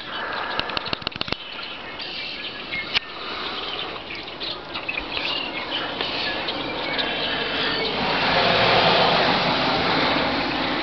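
Outdoor snowstorm ambience: a steady rush of wind-driven noise with a few clicks about a second in. It swells louder over the last few seconds.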